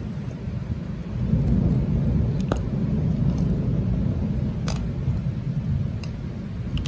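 Thunderstorm with heavy rain: a steady deep rumble of thunder under the hiss of rain, with a few light clicks about two and a half and four and a half seconds in.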